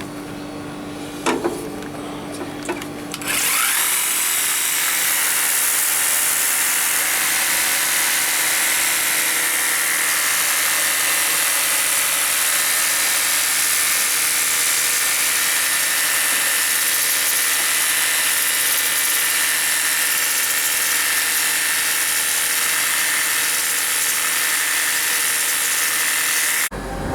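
Worx Hydroshot cordless pressure washer with a 90-degree nozzle, washing out a refrigeration condenser coil: its pump motor whines and the water spray hisses steadily, starting about three seconds in and cutting off suddenly just before the end. Before it starts there is a low steady hum.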